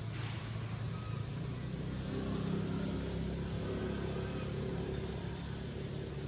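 Steady hum of a motor vehicle engine running, growing a little louder about two seconds in.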